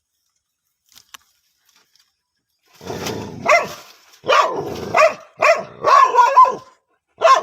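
Dog barking, a run of loud barks that begins about three seconds in, after near silence.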